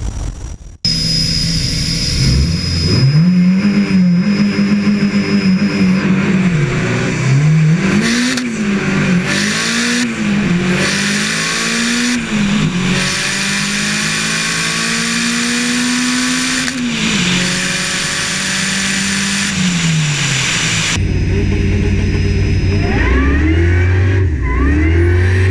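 Drag-racing car engines accelerating hard, their pitch climbing and then dropping at each gear change, several times over. A high steady whine rides over the engine for a few seconds near the start.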